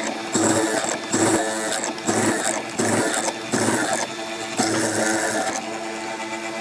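Power tool run in a series of short bursts, about seven of them, each roughly half a second long and spaced less than a second apart, with a high whine in each. The bursts stop near the end, while steady background music plays underneath.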